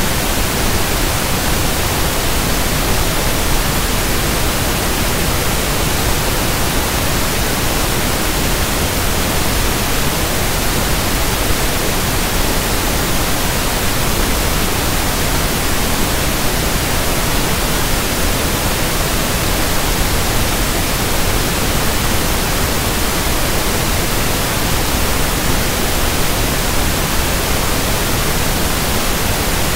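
Steady, loud pink noise (1/f noise): an even, unchanging hiss spread across the whole range of pitch.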